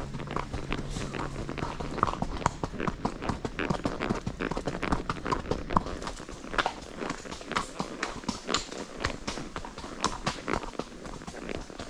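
A ridden horse's hooves clip-clopping on the trail: an uneven, continuous run of hoof knocks.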